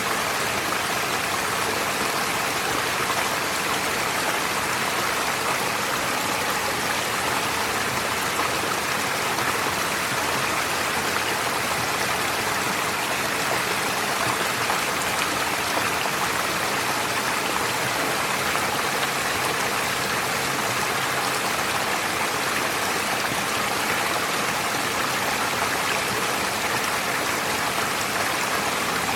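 Stream water flowing and splashing, a steady even rush with no pauses.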